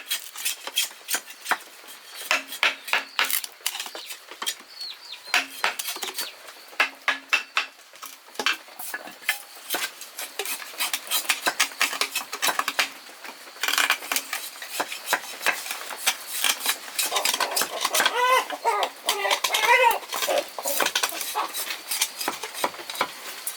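Rapid, irregular clicking and clinking of hard objects knocking together. A chicken clucks for a few seconds near the end.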